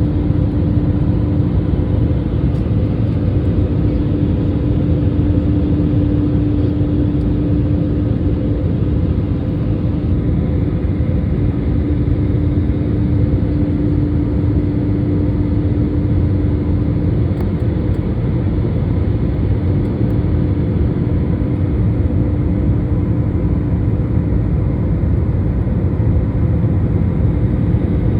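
Airliner engines and rushing air making a steady, loud noise, with a steady droning tone running underneath.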